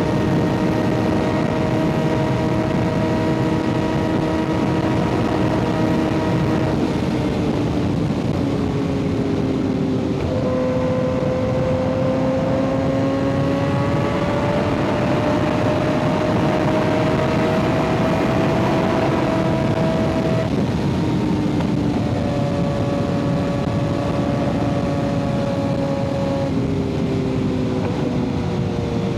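Kawasaki ZX6R 636's inline-four engine through an aftermarket M4 exhaust, running under way with wind rush. The engine note changes pitch abruptly several times as throttle and gears change, and climbs slowly for about ten seconds in the middle.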